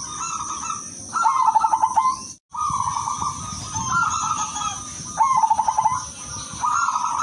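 Silver perkutut (zebra dove) cooing: repeated short phrases of rapid staccato notes, one every second or so, over a steady high-pitched drone, with the audio dropping out for a moment about two and a half seconds in.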